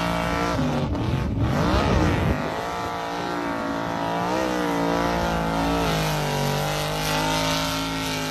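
Radio-controlled car's engine running, revving up and down about one to two seconds in, then holding a fairly steady, slightly wavering pitch.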